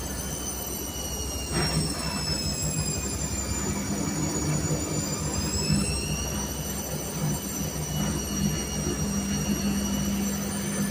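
Whirlpool washing machine running, a steady mechanical hum with a high motor whine that dips in pitch around the middle and climbs back.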